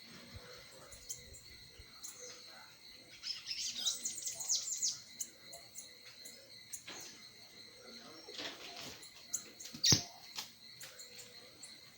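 Small songbird giving a quick run of high chirps a few seconds in, with scattered faint ticks. A single sharp click comes near the end.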